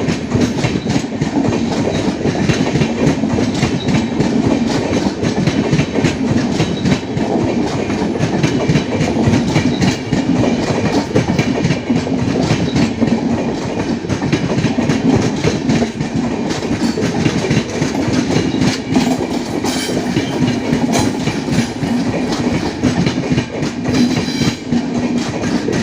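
Passenger express train's coaches rolling past, wheels clattering steadily over the rail joints.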